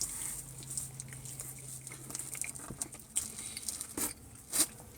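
A man chewing and biting into pizza close to the microphone, with small crunches and mouth clicks. A low steady hum stops a little past halfway.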